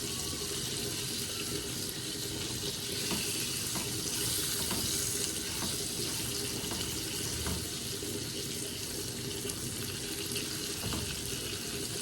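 Chicken frying in a pan with spices: a steady sizzling hiss, with a few light clicks.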